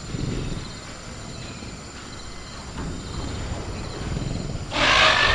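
Sound-effect velociraptor growling low and quietly, then breaking into a loud, shrill call near the end. A faint steady chirr of crickets runs underneath.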